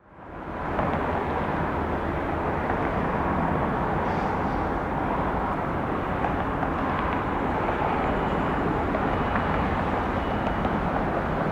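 Boeing 737-800 jet engines running, a steady, even rush of noise that fades in over the first second and holds level.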